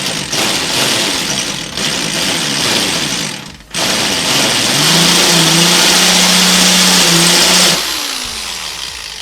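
Power drill boring through the car's fender sheet metal in runs, with a short break about three and a half seconds in. Then comes a longer steady run with the drill motor humming, which stops near the end as the motor winds down, falling in pitch.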